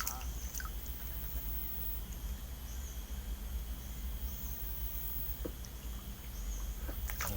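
Outdoor ambience of insects: a steady high-pitched drone, with a faint short chirp repeating about every second and a half, over a low steady rumble.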